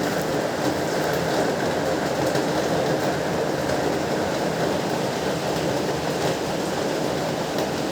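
Heavy rain falling steadily, an even rushing hiss with faint scattered drop ticks.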